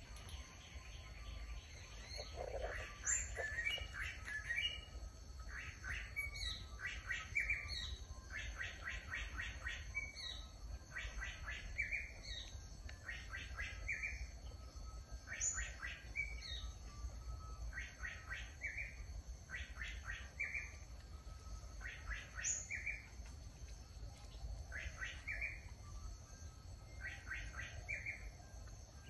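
A bird singing the same short phrase over and over, about every two seconds: a quick run of clipped notes ending in one rising note, over a steady high-pitched hum.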